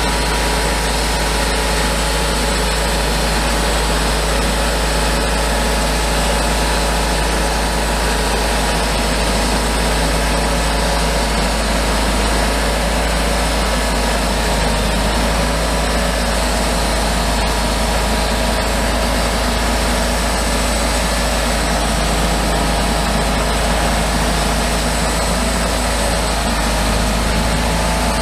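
Engine of a homemade band sawmill running steadily at a constant speed.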